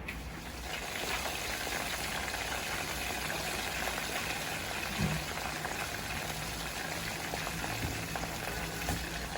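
Breaded chicken karaage pieces frying in hot oil: a steady sizzle and crackle, with one light knock about five seconds in.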